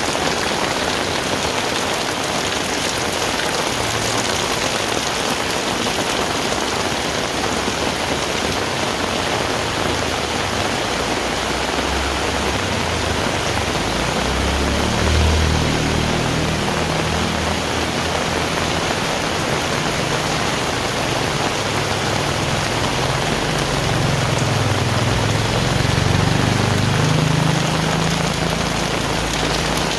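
Heavy rain falling in a steady, even hiss. Through the second half a low rumble rises and falls beneath it, swelling briefly about halfway through and again near the end.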